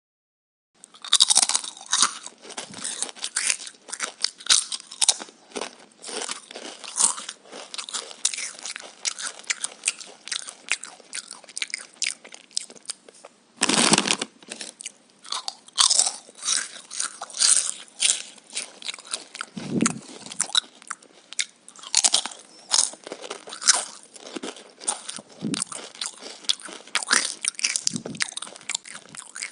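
Crunchy chewing and biting of raw vegetables: a dense, irregular run of crisp crunches after a brief silence, with one louder bite about halfway through.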